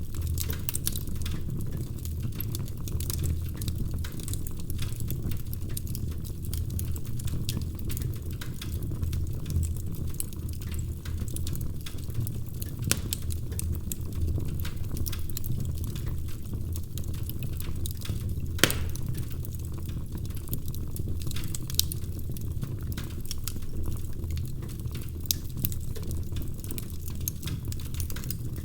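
Wood fire crackling in a fireplace: a steady low rumble of flames with a scatter of small snaps and a few louder pops.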